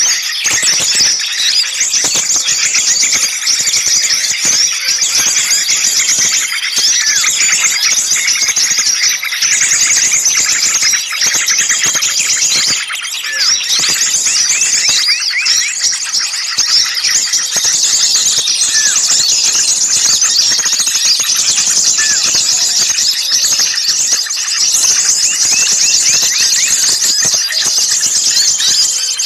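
A noisy chorus of many small songbirds calling at once: rapid high chirps and twitters overlapping without a break. It is the kind of agitated small-bird chorus played as a bird-lure recording to draw other birds in.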